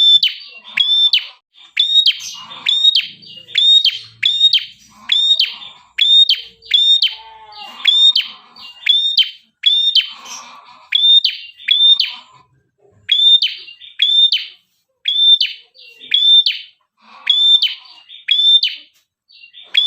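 A prenjak (prinia-type songbird) calling persistently: a long run of sharp, high, hooked chirps, often paired and repeated about once or twice a second, with a few short pauses. This is the busy calling used as a lure to draw other prenjak in.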